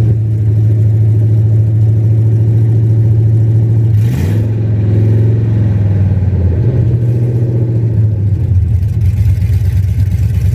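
Freshly swapped 6.0-litre LS V8 in a Pontiac Firebird running steadily just after its first start. Its speed dips briefly and recovers about four seconds in.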